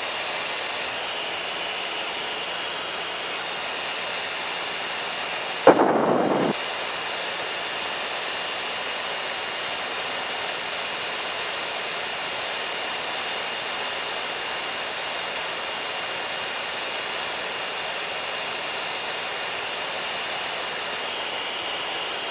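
Steady drone of the Mooney M20K's engine and propeller heard inside the cabin, with a faint constant whine. About six seconds in, a short loud burst of noise cuts in for just under a second.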